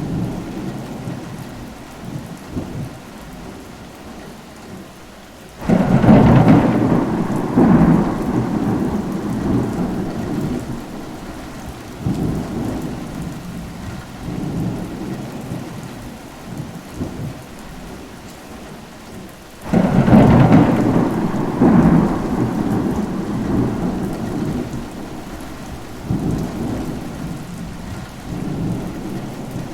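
Steady rainfall with two thunderclaps, about six and twenty seconds in, each breaking suddenly and rumbling away over several seconds.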